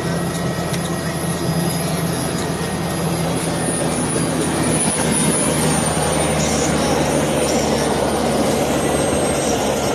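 Helicopter engine and rotor running steadily in flight, a steady low drone that gets a little louder about halfway through.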